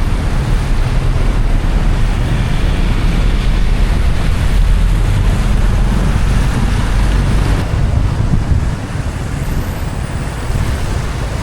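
Steady low rumble and hiss of a car driving on a wet road in the rain, tyres on wet asphalt. The hiss and rumble ease slightly about eight to nine seconds in.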